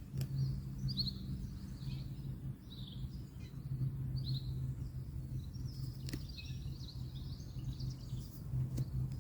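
Small birds chirping in short repeated notes, about one a second, over a steady low hum of distant road noise, with a few sharp clicks.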